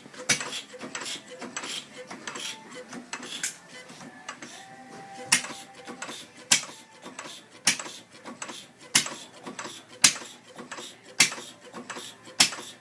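Replica of Henry Ford's 1893 single-cylinder four-stroke engine, with buzz-coil ignition, firing with sharp pops. The first few come irregularly as it catches, then it settles into a slow, even putter of about one firing every second and a bit.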